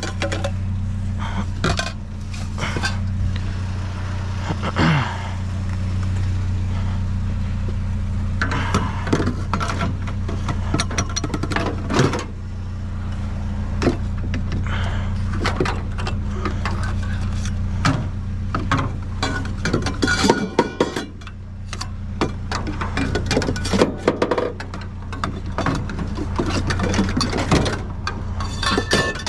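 Rummaging through trash and scrap: repeated clinks, clatters and knocks of hard items being handled and moved, over a steady low hum.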